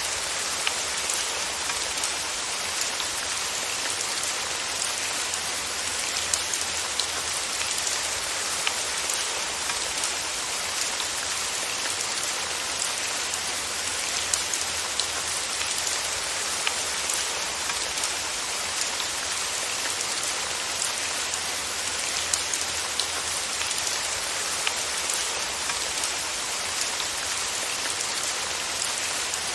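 Steady rain falling, a dense even hiss speckled with many small drop ticks, with no thunder or change in intensity.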